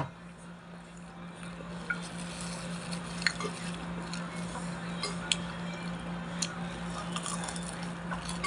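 Close-up chewing and mouth sounds of someone eating a banana turon (fried banana spring roll), with a few small sharp clicks and smacks over a steady low hum.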